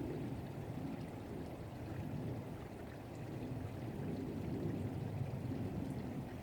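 Small creek flowing over snow-covered rocks: a steady rushing of water, mostly low in pitch.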